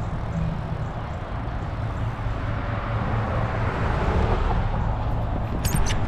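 Steady rush of wind buffeting the microphone and fat tyres rolling as an electric fat-tire bike rides along, swelling a little midway, with a few sharp clicks near the end.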